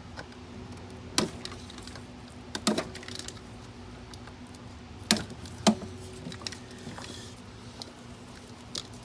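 A few sharp, light metallic clicks and clinks of tools and parts being handled on an engine, about five in all, over a faint steady hum.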